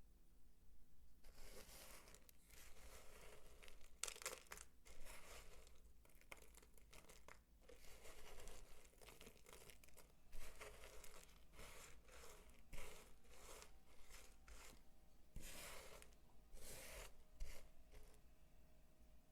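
Dry soap being crumbled and crunched by hand: crisp crinkling, crunching sounds in irregular bursts, with a few sharper cracks.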